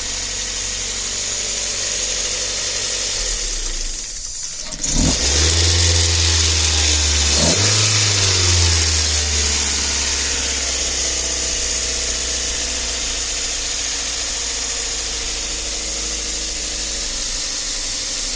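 Mazda Protege5 engine fired up after a fresh install: a sharp jump about five seconds in as it catches and revs, a second blip a couple of seconds later, then the revs fall away and it settles into a steady idle.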